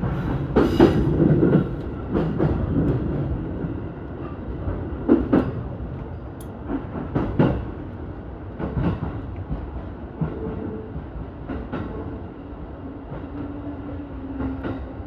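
Keihin-Tohoku Line E233-series electric commuter train rolling slowly into the terminal: wheels clack over rail joints and points at irregular intervals while the running noise fades as it slows. A faint steady hum comes in near the end.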